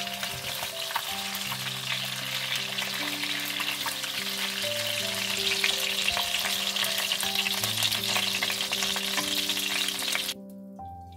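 Chicken thighs sizzling and crackling in hot oil in a frying pan. The sizzle cuts off suddenly near the end, leaving soft background music with long held notes.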